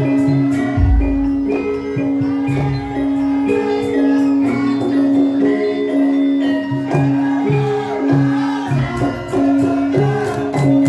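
Javanese gamelan music for a lengger dance. Struck pitched notes and frequent percussive strokes play over a steady held note, with deep low thuds about a second in and again near nine seconds.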